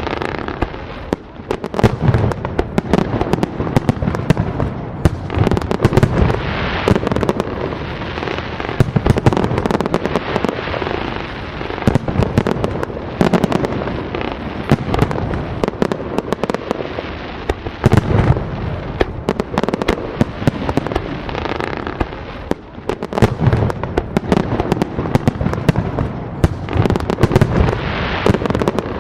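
Fireworks display going off continuously: a rapid, dense run of sharp bangs and crackling, with deep booms from the larger shells.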